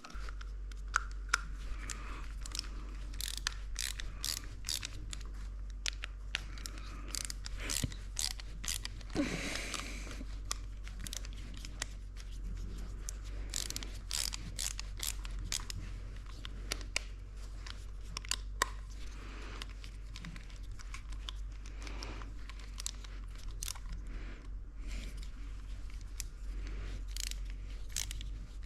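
Hands working on electrical wiring with small tools: irregular small clicks, scrapes and crinkling over a steady low hum.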